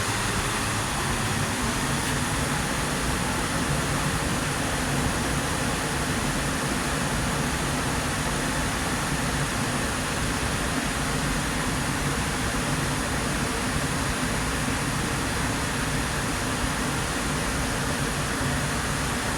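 Steady rush of water going over a nearby dam and falls, an even, unbroken roar.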